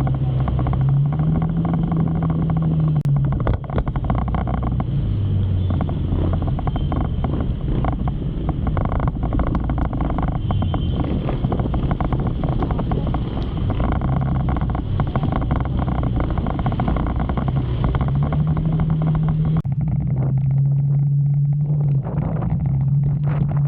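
Motorcycle engine running under way, its note stepping up and down with the throttle, over a steady rush of noise.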